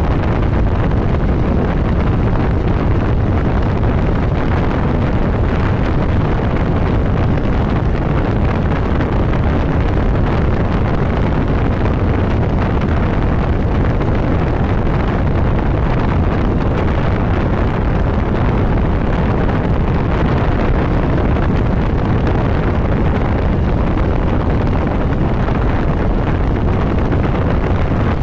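Steady wind rush over the microphone of a motorcycle riding at road speed, with the ride's engine and road noise underneath.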